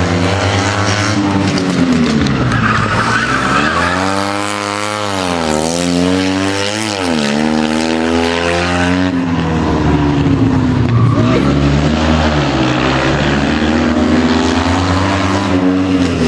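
Fiat 126p rally car's small air-cooled two-cylinder engine revving hard, its pitch rising and falling several times as the driver brakes and accelerates through the tight corners. The tyres squeal at times.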